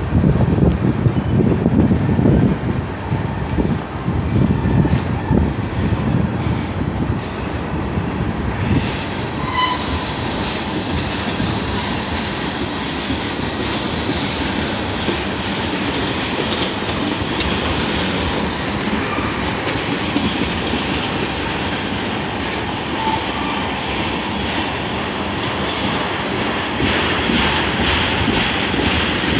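Freight train tank cars rolling past, their wheels rumbling and knocking over the rails. The knocking is heaviest for the first several seconds, then it settles into a steadier rolling hiss.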